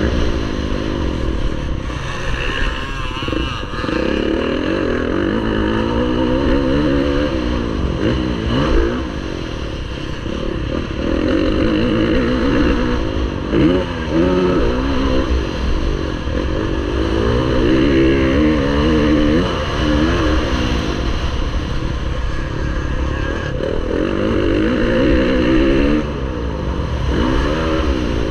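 MX1 motocross bike engine racing on track, its pitch rising and falling again and again as the throttle opens and shuts and the gears change, with some clatter.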